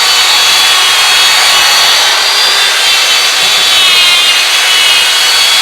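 Electric drill spinning a buffing wheel against a dirt-bike engine case, polishing it. The drill's motor gives a steady high whine over the hiss of the wheel rubbing the metal, its pitch dipping slightly about halfway through.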